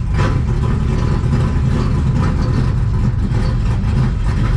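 Car engine running steadily at idle, its sound sitting low in pitch.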